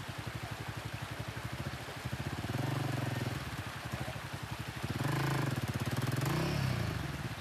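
Motorcycle engine idling with an even, rapid beat, revved up twice: briefly about two and a half seconds in, and again for longer about five seconds in, the pitch rising and falling.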